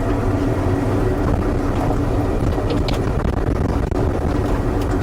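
Excavator's diesel engine running steadily at a constant speed, a loud, even drone.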